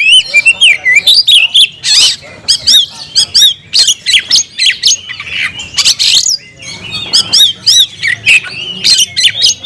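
Oriental magpie-robin (kacer) singing hard: a loud, fast, unbroken stream of varied whistled notes sliding up and down, mixed with sharp harsh notes. This is the bird's challenge song, calling out to a rival.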